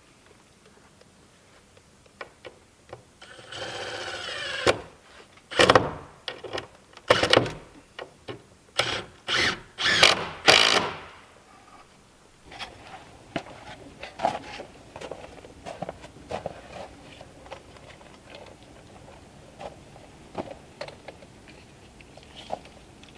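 Woodworking tools: a small power tool runs for about a second and a half, then a string of loud, short strokes follows over about five seconds, and after that only light clicks and knocks.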